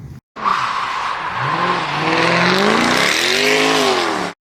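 Car engine revving, its pitch rising and falling in several sweeps over a loud rushing noise. The sound starts and stops abruptly.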